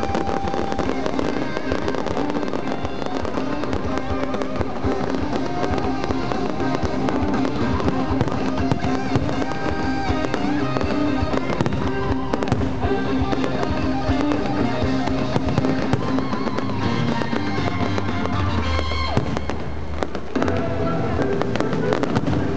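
Fireworks display: a dense, continuous crackling and popping of fountains, comets and aerial shells bursting, over music playing with the show.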